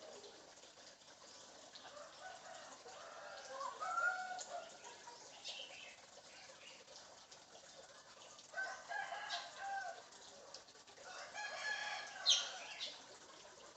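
African grey parrot imitating a rooster's crowing and clucking, in three short phrases about four, nine and twelve seconds in.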